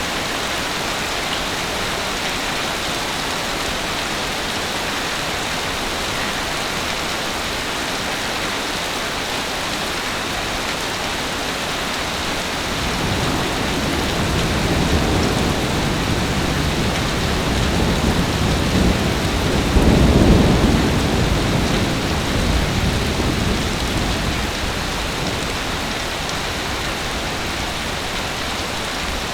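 Heavy rain falling in a steady hiss. About halfway through, a long low roll of thunder builds, peaks and fades away.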